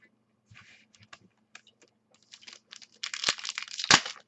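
Trading card pack wrapper being torn open and crinkled, with scattered light clicks of cards being handled. About three seconds in the crinkling and tearing becomes dense and louder, with two sharp knocks.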